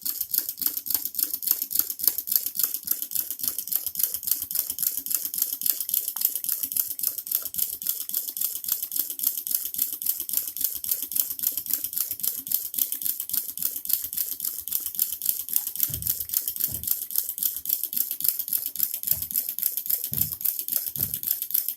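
Small homemade hot air engine running fast, clattering in a rapid, even run of clicks. The clatter comes from loose linkage whose holes are too large, so the parts knock up and down. A few low thumps come near the end.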